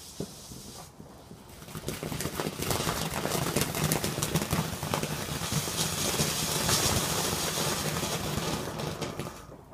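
Ground firework fountain, a 'Spinkle', hissing and crackling as it sprays sparks. It builds about two seconds in, stays strong, and dies away near the end.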